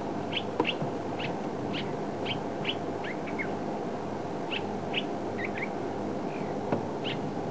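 Birds chirping: short, high calls repeated about every half second, some in quick pairs, over a steady low background hiss.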